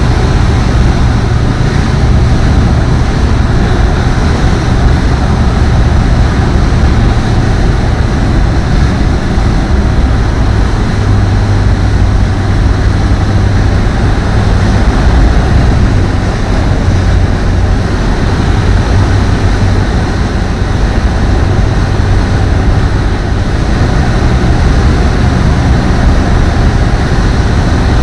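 Apollo Fox ultralight aircraft's engine running steadily, a low drone under a loud rush of wind noise.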